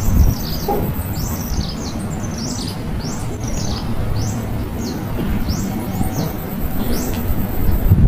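A small bird's high, thin chirps, each a quick falling note, repeated about twice a second over a low rumble.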